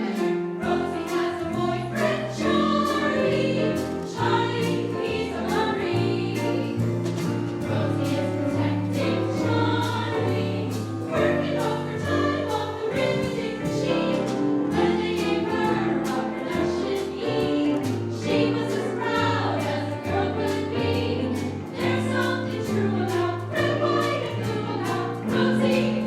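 Group of voices singing a song together over instrumental backing, with a stepping bass line and a regular beat.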